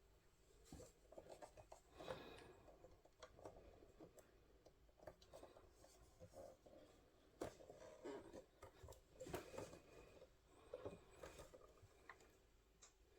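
Near silence with faint, scattered clicks, taps and rubbing noises of handling work.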